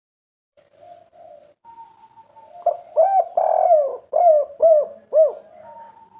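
Spotted dove (derkuku) cooing: a few soft coos, then a loud run of about six rounded, arching coos in the middle.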